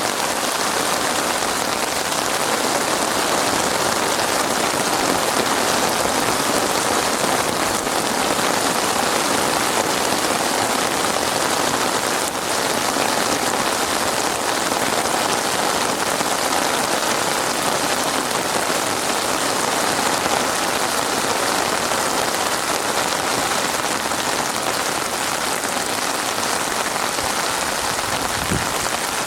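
Heavy rain falling steadily on a surface, a dense even patter with no change in strength.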